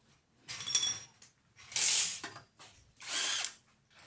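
A hand-held power tool in a repair shop, running in three short bursts, each under a second long; the first has a high whine.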